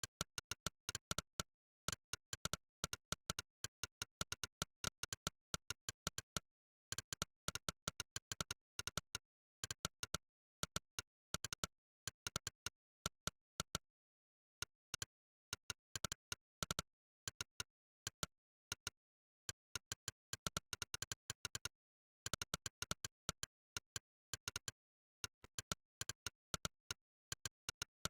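Monkeytype's synthesized "click" keypress sound, one sharp click per keystroke during fast typing. It comes in quick runs of several clicks a second, broken by brief pauses of dead silence.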